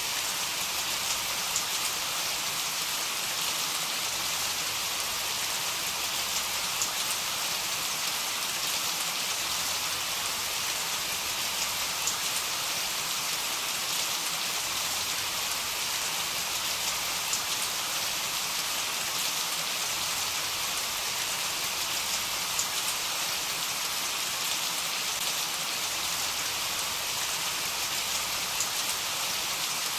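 Heavy rain falling steadily: a dense, even hiss with occasional sharper drop ticks. No thunder is heard.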